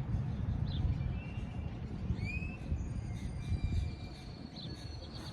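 Birds chirping over a low steady rumble: a few short chirps and a rising whistle, then a thin high note and a quick trill near the end.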